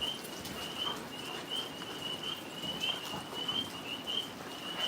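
Tree frogs calling in a steady, high-pitched trilling chorus of short repeated phrases, with faint scattered clicks and rustling beneath.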